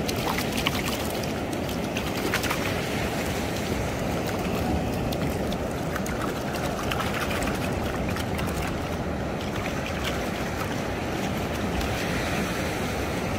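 Steady rush of sea surf washing on a sandy beach, even in level throughout, with a few faint ticks.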